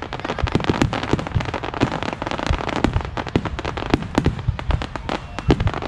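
Fireworks display: a dense barrage of aerial shell bursts, several bangs a second overlapping with no let-up.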